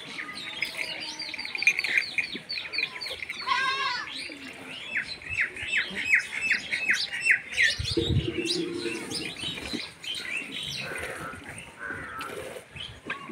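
Birds calling: a rapid run of high chirps, a brief warbling trill, then a second run of quick chirps, with a short low sound about eight seconds in.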